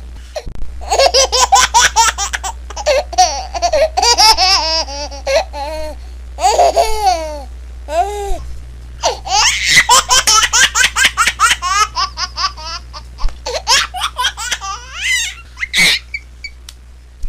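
A baby laughing hard in long rapid runs of short breathy bursts, with a few drawn-out high squeals in the middle, over a steady low hum.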